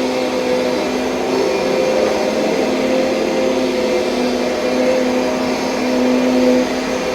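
2007 Kirby Sentria upright vacuum cleaner running steadily, its motor giving a continuous pitched hum over the rush of air.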